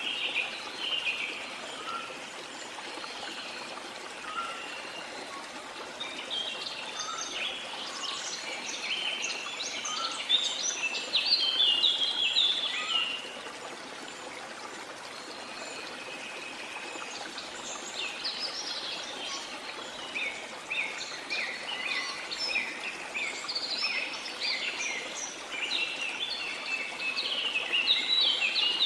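Jungle birds chirping and singing in quick, busy phrases over the steady rush of a waterfall. The birdsong thins out for a few seconds near the middle, then builds again.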